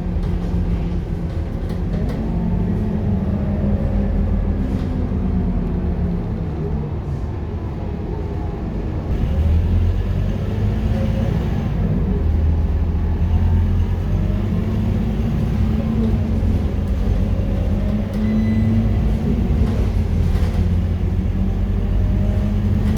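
Scania K230UB city bus's diesel engine running under way, its pitch rising and falling in repeated glides as it speeds up and changes gear. It gets louder about nine seconds in, as it pulls harder.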